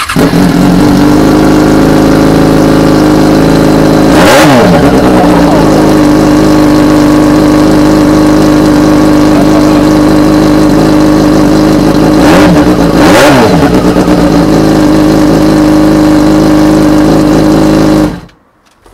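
Yamaha FZ6 Fazer S2's 600 cc inline-four engine running with no exhaust fitted, very loud. It idles steadily, is revved briefly about four seconds in and twice more around twelve to thirteen seconds in, then cuts off shortly before the end.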